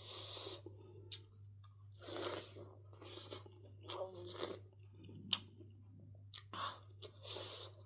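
Close-miked chewing and crunching of food in the mouth: irregular bites with sharp crisp crunches between softer wet chewing, over a faint steady low hum.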